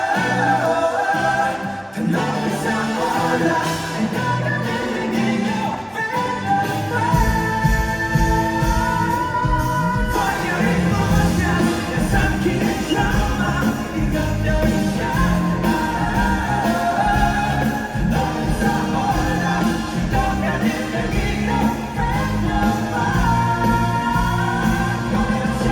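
Live pop-rock band playing with singing; the drums and bass come in heavily about seven seconds in and carry on at full band.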